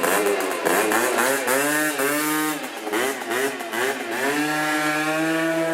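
Two-stroke scooter engine exhausting through a Giannelli Reverse exhaust, blipped up and down several times and then held at steady revs from about four seconds in.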